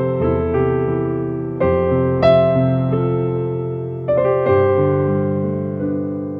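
Slow instrumental music on an electric piano or keyboard: sustained chords struck every second or two and left to ring and fade, with no singing.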